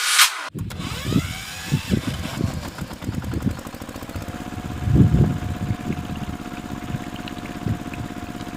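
Small engine starting and running with an uneven low chugging. A steady whine joins about four seconds in.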